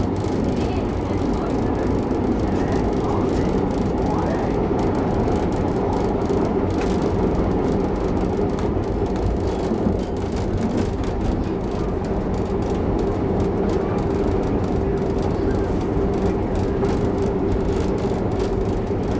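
Vintage train running at speed, heard from inside a passenger coach: a steady rumble of wheels on the rails with a steady hum held throughout.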